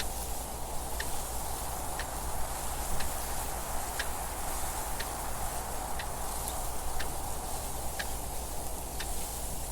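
A clock ticking steadily, one tick a second, over a constant wash of wind noise.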